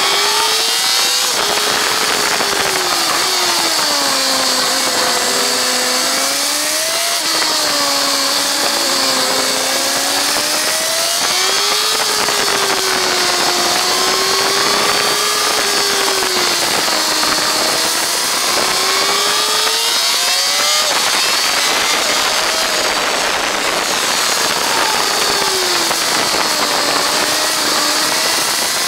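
Kawasaki ZZR1400's inline-four engine at track speed, its pitch rising and falling with the throttle through corners and jumping suddenly a few times, under heavy wind rush on the microphone.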